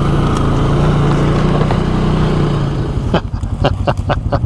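ATV engine pulling steadily under load, then easing off about three seconds in, followed by a quick series of sharp knocks and clatters as the machine rides into and over rock.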